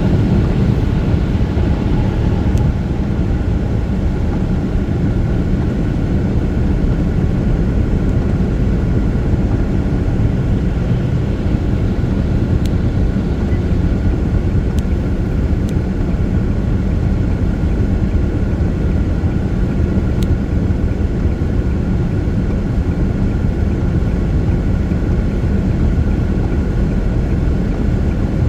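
Steady low rumble of a vehicle driving at freeway speed on a rain-wet road: tyre and engine noise, with a few faint ticks.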